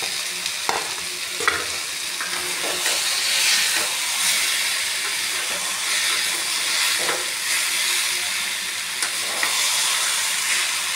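Brinjal, onion and fried eggs sizzling in oil in a metal kadai, with a steady frying hiss. A metal spatula scrapes and clicks against the pan now and then as it moves the eggs.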